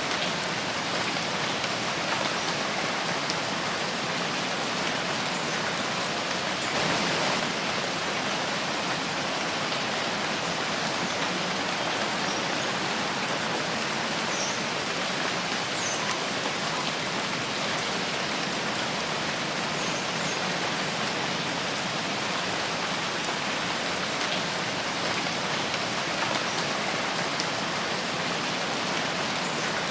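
Steady rain falling in a forest, a dense even hiss of drops, with a brief swell about seven seconds in.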